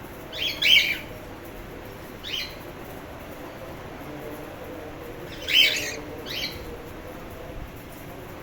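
Cockatiels calling in four short bursts, the first and third the loudest.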